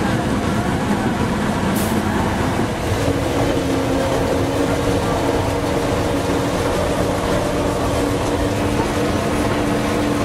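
Narrow-gauge train heard from inside a moving carriage: a steady rumble of wheels on rails under an engine hum whose note shifts about three seconds in. A brief hiss about two seconds in.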